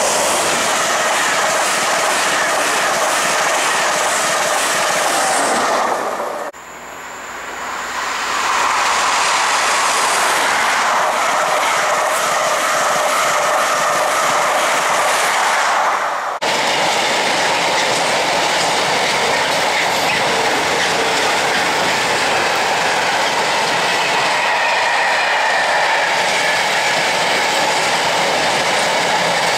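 LNER InterCity 225 express (Class 91 locomotive with Mark 4 coaches) passing at speed, its coaches rushing by on the rails with a brief sudden break about six seconds in. In the second half a container freight train's flat wagons roll past with a steady clickety-clack and a faint wheel squeal.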